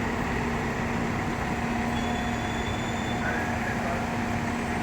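Steady drone of fire trucks idling on scene, with a constant low hum over city street noise.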